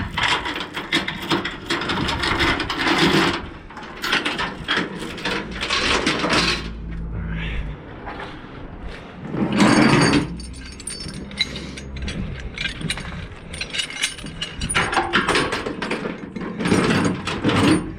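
Steel tie-down chain clattering and clanking as it is handled and pulled across a flatbed load, in dense runs of metal rattles with a short lull in the middle.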